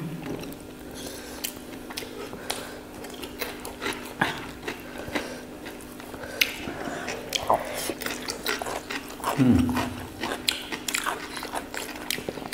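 People chewing and eating food by hand, with scattered wet mouth clicks and small crunches over a faint steady hum. About nine and a half seconds in, a short low hum from a voice falls in pitch.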